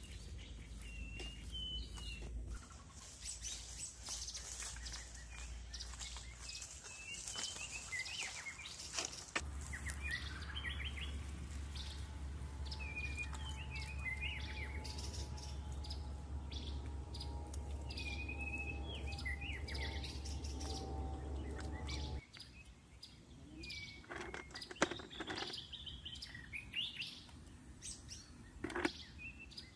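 Songbirds chirping and calling in short, repeated phrases over a low steady outdoor rumble, with a few sharp taps near the end.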